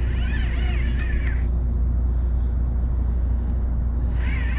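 Steady low rumble, with a short wavering high-pitched sound near the start and again near the end.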